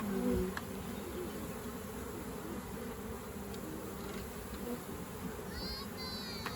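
Honey bees buzzing steadily around an opened hive and frames of comb, with a few faint clicks and a brief high chirp near the end.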